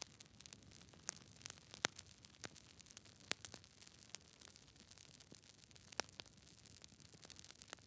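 Campfire crackling: burning wood gives irregular sharp snaps and pops over a soft steady hiss, with a few louder pops scattered through.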